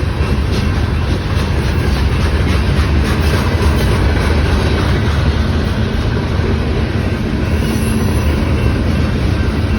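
A train rolling past with a steady, loud rumble of its wheels on the rails.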